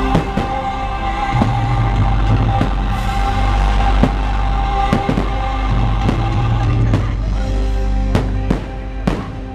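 Fireworks bursting in a quick string of sharp bangs, one every half second to a second, over loud show music; the two bangs near the end are the strongest.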